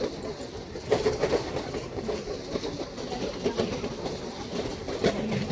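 Small tourist train running, heard from on board: a steady rumble with irregular clicks and clatter from the carriages.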